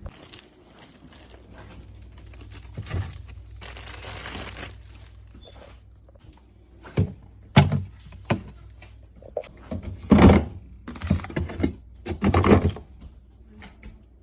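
Thuds and knocks of containers and fridge parts being handled and set down, with a short hiss about three and a half seconds in. The loudest thuds come near the middle and toward the end.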